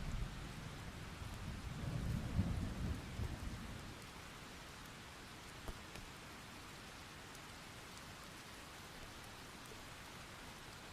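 Steady rain falling, with a low roll of distant thunder that swells about two seconds in and dies away by about four seconds.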